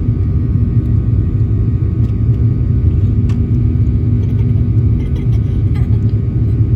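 Steady low rumble of a Boeing 737-800's CFM56-7B jet engines and airflow heard inside the passenger cabin, with a few faint ticks of cabin rattle.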